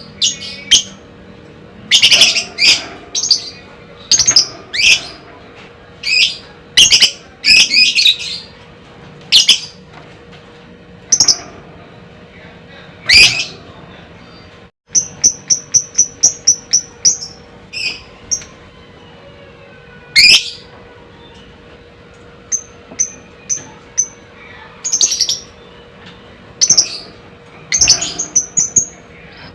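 Lovebird singing: loud, shrill chirps and squawks in irregular groups, with a fast run of short repeated notes after a brief dropout midway and shorter runs later on.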